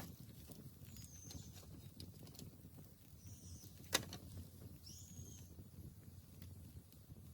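Bamboo bonfire crackling faintly, with one sharp pop about four seconds in. A bird gives a few short high calls in the background.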